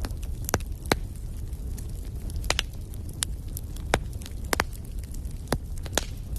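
Wood fire burning in a fireplace: a steady low rumble of the flames with sharp, irregular crackles and pops, about a dozen in a few seconds.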